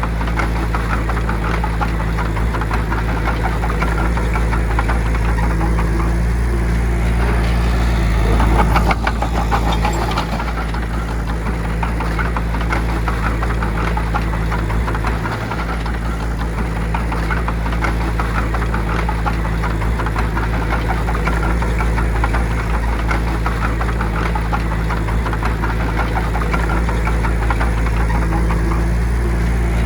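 Bulldozer's diesel engine running steadily, with a rapid clatter over a low drone and a short rise in level about eight to nine seconds in.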